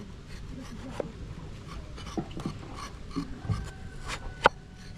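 Irregular scraping and rubbing, with scattered light knocks and clicks and one sharp click near the end.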